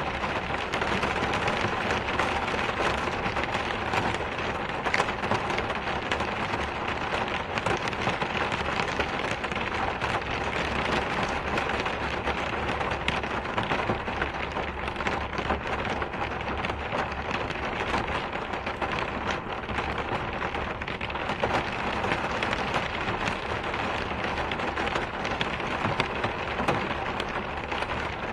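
Steady rain falling: an even, unbroken hiss of rain with many small drop ticks on a surface.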